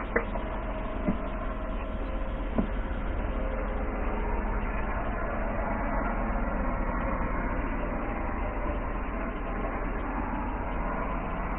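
Steady vehicle engine and road noise, with a few faint clicks in the first few seconds.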